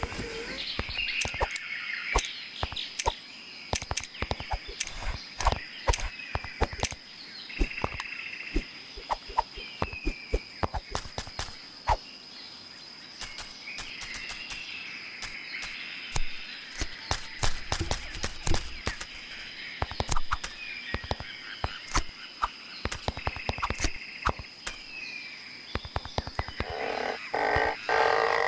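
Frogs croaking: many sharp, clicking calls at an irregular pace, with short higher calls every second or two over a steady high tone.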